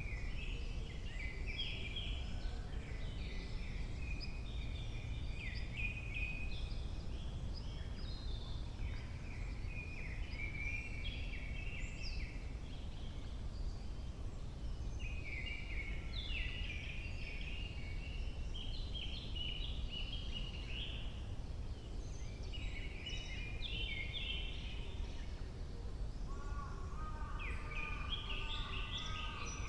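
Several songbirds singing in a spring forest, their short phrases overlapping throughout, over a steady low background rumble. Near the end, a lower repeated call joins in.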